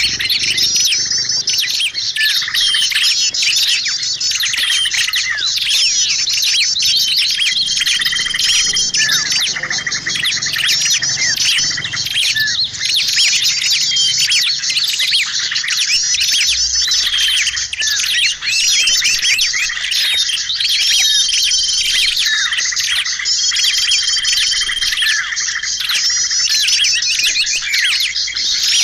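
Bird-lure recording (suara pikat) used to call in wild birds: a dense, unbroken chorus of many small birds chirping and trilling at once, with a held whistle note recurring every few seconds.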